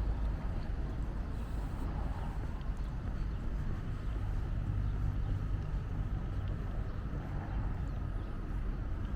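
A motor engine running with a steady low rumble.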